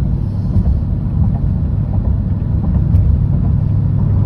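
Exhaust drone of a 2013 Jeep Grand Cherokee's 5.7 Hemi V8 heard inside the closed cabin while driving: a steady low drone. It comes from the aftermarket setup, with Cherry Bomb mufflers in place of the stock suitcase muffler and the resonator deleted.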